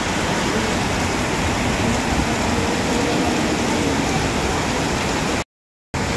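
Heavy downpour: a loud, steady hiss of rain pouring onto the road and pavement. It cuts out completely for about half a second near the end, then resumes.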